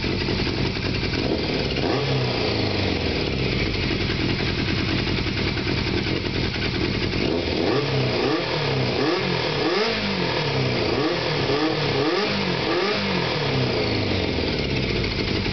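A 1998 Yamaha Fazer FZ400's inline-four engine, breathing through a handmade aftermarket exhaust, idles and gives one rev about two seconds in. Then, from about halfway, it takes a quick run of about nine sharp throttle blips, each rising and falling, before it drops back to idle near the end.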